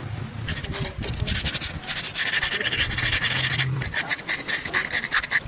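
Repeated rough scraping strokes against a hard surface, irregular in rhythm, over a low hum.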